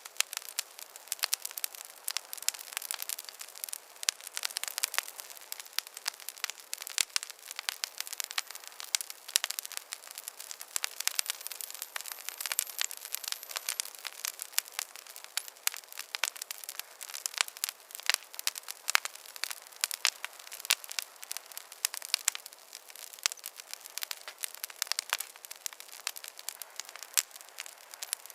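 Wood campfire crackling: a dense, irregular run of sharp, high-pitched snaps and pops with no low rumble under them.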